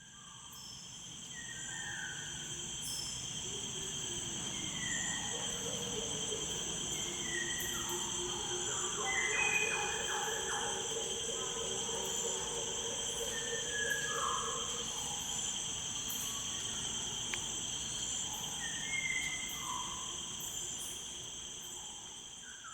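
Natural ambience of insects trilling steadily and high, with short falling bird calls scattered through and a longer, lower call in the middle. The whole bed fades in at the start and fades out at the end.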